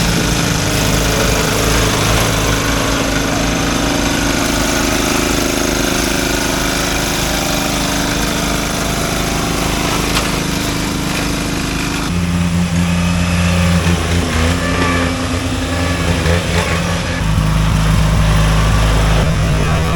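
Riding lawn mower engines running steadily, the engine note changing abruptly about twelve seconds in and growing louder in the low end near the end.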